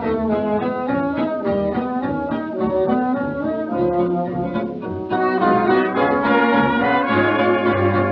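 Late-1920s dance orchestra playing an instrumental passage of a foxtrot song, brass to the fore, with the dull top end of an old recording.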